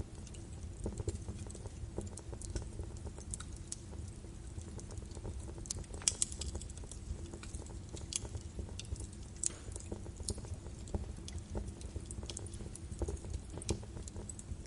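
Birch wood fire crackling in a fireplace: irregular sharp pops and snaps over a steady low rumble of the flames, with a cluster of louder pops about six seconds in.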